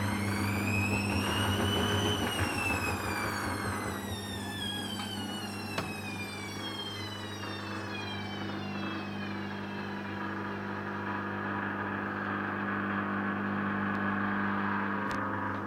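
Hoover Dynamic washing machine's drum motor whining up for about two seconds, then winding down steadily over the next several seconds as the first spin is cut out by the suds lock, the machine having detected too much foam. A steady low hum runs underneath, with a single click about six seconds in.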